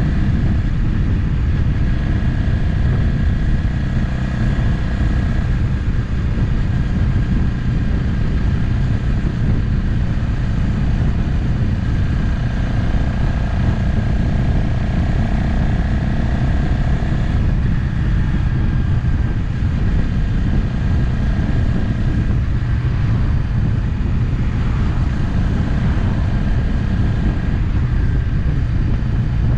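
Motorcycle cruising at a steady speed, its engine running evenly under wind and road noise as picked up by an onboard camera.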